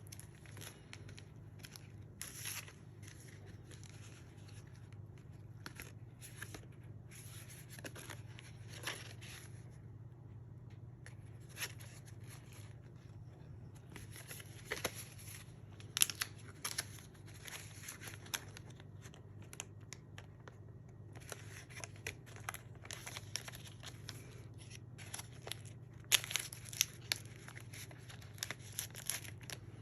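Scrapbook album pages being handled and turned: bursts of crackly paper and plastic rustling with short pauses between, over a steady low hum.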